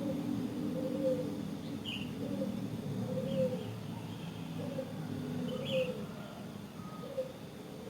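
A bird repeating a short, low, rising-and-falling note about once a second, with a few brief higher chirps from other birds over a steady low wind rumble.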